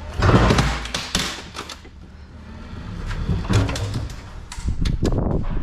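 Loaded pallet being forced into a truck trailer over the loading ramp: rattling knocks and scraping in three bursts, the first about a second in and the last near the end, over a low steady hum.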